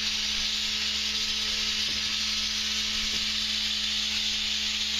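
Abrasive blasting nozzle hissing steadily as it strips tar off timber, with a steady low hum underneath.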